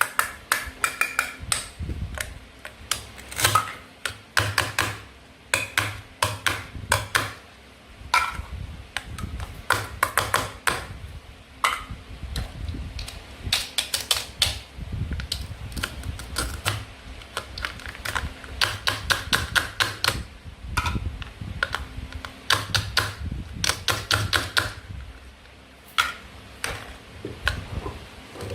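Plastic toy food clicking and tapping as it is handled and cut apart with a toy knife, in quick irregular clusters of sharp clicks.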